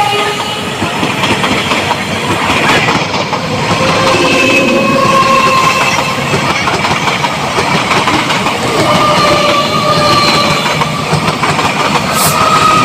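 Indian Railways electric local train running past: a loud, steady noise of wheels on the track, with brief high-pitched tones coming and going over it.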